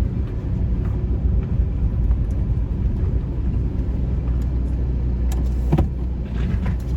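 Car driving, heard from inside the cabin: a steady low rumble of engine and road noise, with a brief knock a little under six seconds in.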